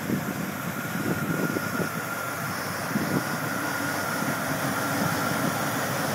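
Vortec 5.3-litre V8 engine idling steadily, with a faint steady whine above the rumble.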